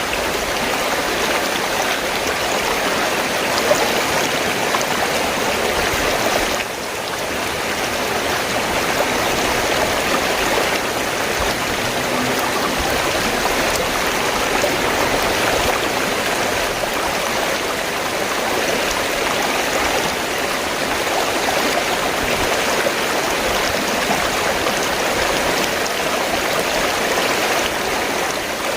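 River water flowing in a steady, continuous rush, with a brief drop in level about seven seconds in.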